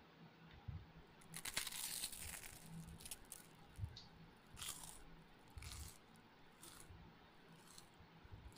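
A person eating rice and fish curry by hand: chewing and mouth noises in several short bursts, the longest about one to three seconds in.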